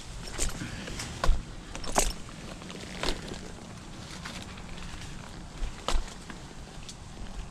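Scattered sharp knocks and clicks at uneven intervals over a low steady rumble.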